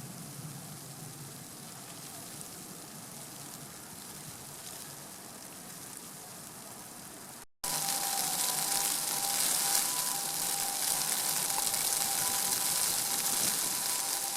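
Steady rushing hiss of flowing water. It breaks off briefly about halfway through and comes back louder and brighter, with a faint steady two-note hum.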